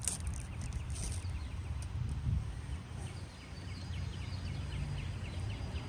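A bird calling in quick trains of short, high chirps over a steady low outdoor rumble, with a few sharp clicks of parts being handled in the first second.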